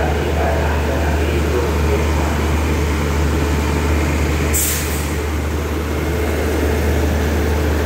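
Diesel passenger train idling at the platform, a steady low hum, with a brief sharp hiss of air about halfway through.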